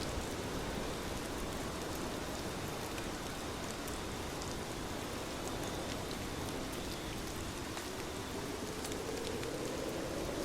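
Steady rain falling, an even hiss with scattered sharp drop ticks. A low rumble begins to swell near the end.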